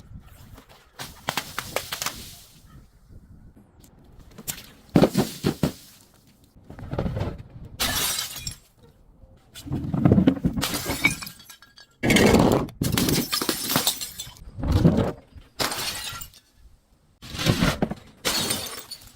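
Glass breaking and crunching in a series of about ten separate bursts, each lasting around a second, with short gaps between them.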